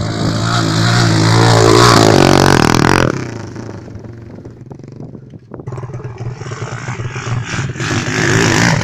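Pit bike engine running hard at high revs. About three seconds in it drops off sharply, then picks up again from about six seconds.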